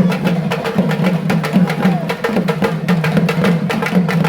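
Fast, continuous drumming by a traditional percussion ensemble, the strikes coming in a quick even rhythm over a steady lower tone.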